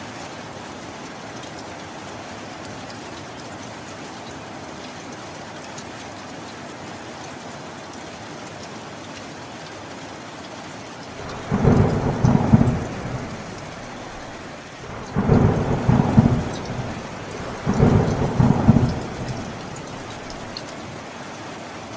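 Steady heavy rain with three loud rolls of thunder in the second half, each lasting one to two seconds, coming in quick succession.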